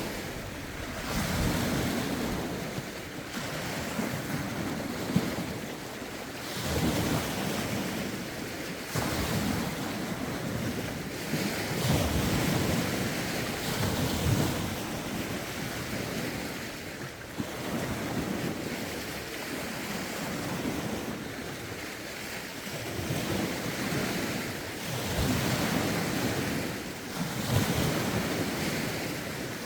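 Lake waves washing in, swelling and falling back every two to three seconds, with gusty wind rumbling on the phone's microphone.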